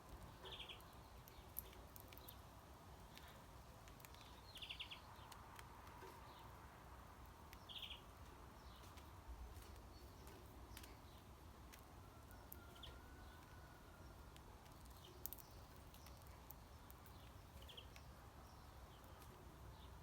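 Faint bird calls: a handful of short chirps several seconds apart, with a brief thin whistle in the middle and scattered faint clicks, over a low steady background rumble.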